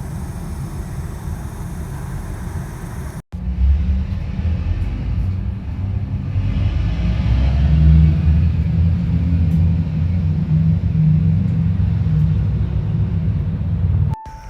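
Low rumble of a van driving, heard from inside the cab, in two stretches split by a sudden cut about three seconds in; the second stretch is louder.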